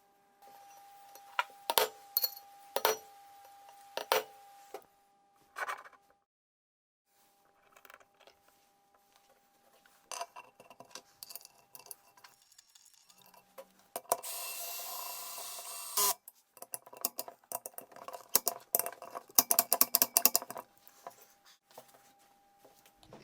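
Mechanical assembly-work sounds: scattered sharp metallic clicks and knocks over a faint steady hum, a hiss lasting about two seconds partway through, and a quick run of clicks near the end.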